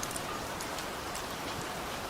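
Heavy rain falling steadily, an even hiss with scattered sharp drop ticks and no thunder.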